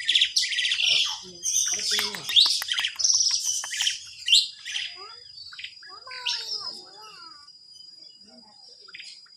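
White owl calling: a run of loud, harsh, rasping screeches and chirps in quick succession, thinning out after about five seconds into a few fainter calls.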